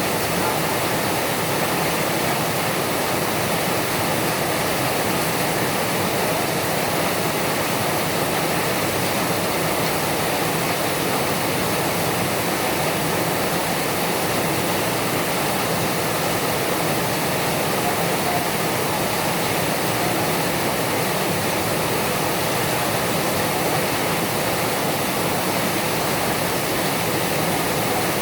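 Heavy rain falling, a loud, steady, even hiss.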